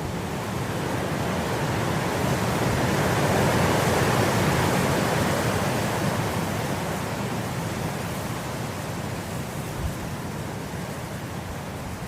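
Wind blowing through grass: a steady rushing that swells into a gust a few seconds in, then eases off.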